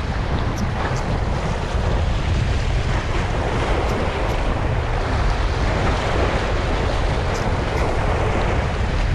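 Strong wind buffeting the microphone with a steady low rumble, over the wash of waves against the shore.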